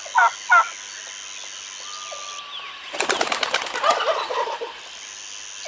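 Domestic turkey calling: two short yelping calls near the start, then a dense, rapid rattling burst of calls about three seconds in.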